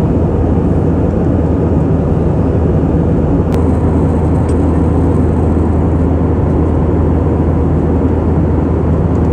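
Airbus A320 cabin noise in flight: a steady, even rush of engines and airflow with a constant low hum. There is one brief click about three and a half seconds in.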